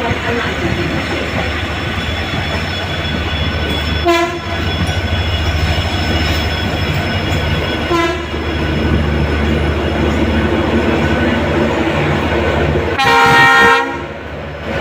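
Mumbai local electric train running, heard from inside the coach: a steady low rumble of motors and wheels on the track. Short train-horn blasts sound about four seconds in and briefly near eight seconds, and a longer blast comes near the end.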